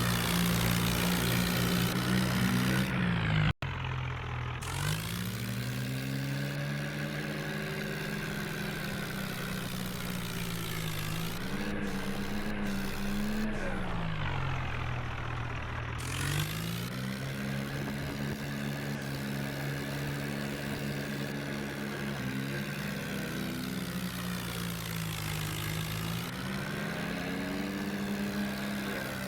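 Tractor engine running steadily, its pitch dipping and rising back several times as the revs fall and pick up again. The sound breaks off abruptly a few seconds in and resumes.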